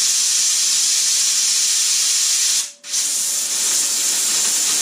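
Electric welder arc hissing steadily as a weld is run along the thin, rotten bottom edge of a car door. The arc cuts out briefly about three seconds in and then starts again.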